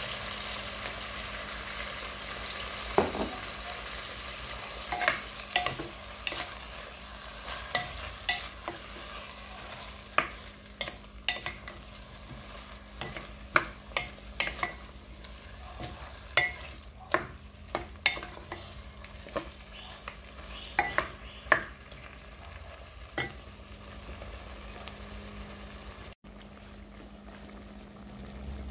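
Chicken pieces sizzling in a glass pot, a steady frying hiss, while a wooden utensil stirs them and knocks against the glass in many sharp, irregular clicks. The clicks stop a few seconds before the end. This is the sangkutsa stage, where the chicken is cooked in its own juices to bring out its flavour before water is added.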